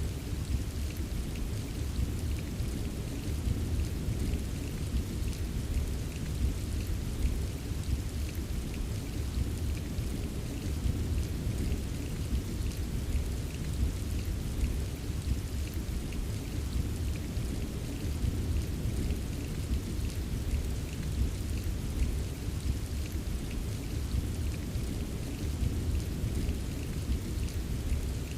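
Steady rain with fine pattering drops, over a continuous low rumble of thunder.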